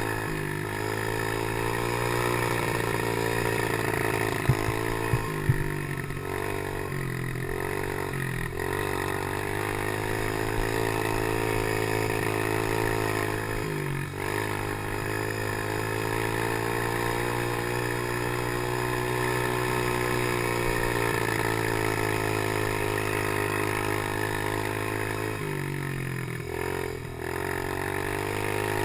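Chinese PY90 geared motorcycle engine running on a motocross track, its revs rising and falling with the throttle and easing off several times as the bike slows or shifts. There are a few sharp knocks about four and five seconds in.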